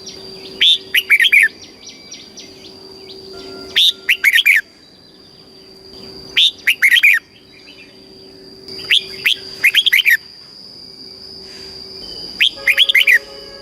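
Red-whiskered bulbul singing short, quick, warbling phrases, five in a row about every two and a half to three seconds, over a faint steady high-pitched tone.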